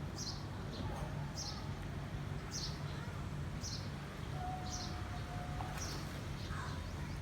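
A bird repeating a short, high, falling chirp about once a second over a steady low background hum. A brief steady tone sounds faintly in the middle.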